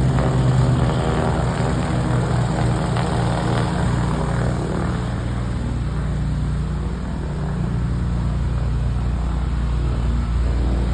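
Propeller aircraft engine running, loudest at first and fading over the first several seconds as the plane moves away, leaving a steady low drone.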